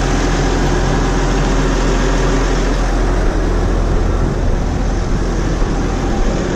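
New Holland 6080 tractor's diesel engine running steadily, with no change in speed.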